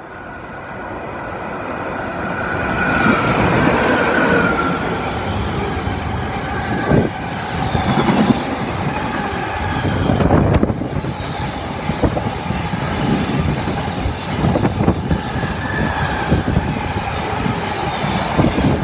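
Freight train passing through a station. It grows louder over the first three seconds, then a long run of wagons goes by with wheels clattering over the rail joints and squealing now and then.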